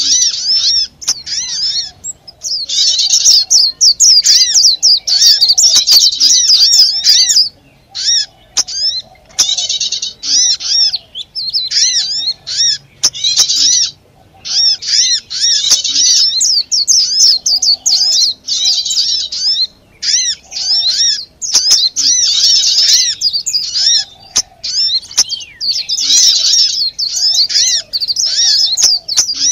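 Bird-lure recording of small songbirds chattering noisily: loud, rapid, high chirps packed into bursts of a second or two with short breaks between them, the excited mobbing or distress-type chatter used to pull other small birds in.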